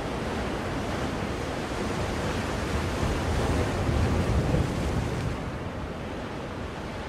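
Recorded ocean waves played as soothing white noise: a steady wash of surf that builds to a breaking wave about four seconds in, then draws back.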